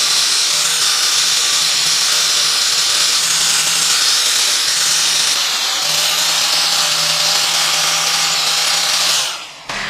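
Electric power tool running steadily with a high, hissing whine, stopping suddenly near the end.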